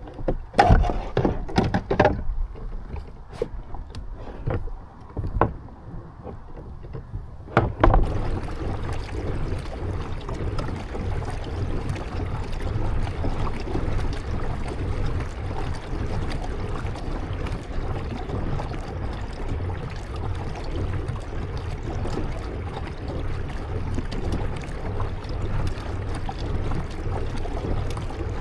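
Kayak on the water: several sharp knocks over the first eight seconds, such as a paddle striking the hull, then a steady rushing noise of water and wind.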